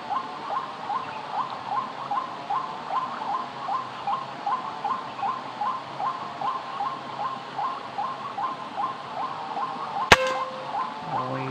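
Watercock (ayam-ayaman) calls: short rising notes repeated evenly, about two to three a second. About ten seconds in, a single sharp gunshot crack, the loudest sound here, brings the bird down.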